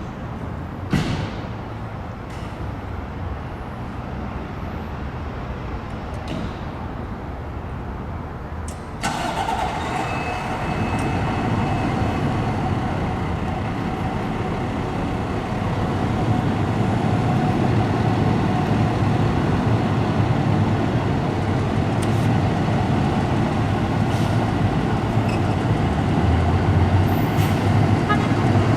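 Fire apparatus engine running, with a sudden step up in sound about nine seconds in and a steady build in loudness after that.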